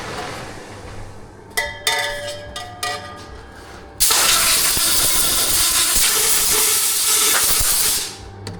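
Several metallic clanks with a ringing tone, as of stainless exhaust tubing being handled, then about four seconds in a loud steady hiss that starts and stops abruptly.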